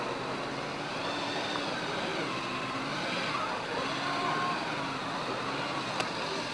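Police motorcycle engine, a Honda VFR800, running at low speed with the revs rising and falling as it works through a slow balance course. There is a single sharp click about six seconds in.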